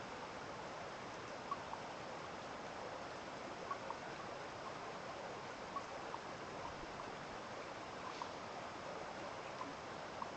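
Small stream of water running steadily, with short faint plinks every second or two.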